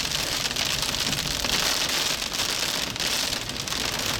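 Heavy rain hitting a vehicle's roof and windows during a severe thunderstorm with strong winds: a steady, dense hiss of drops.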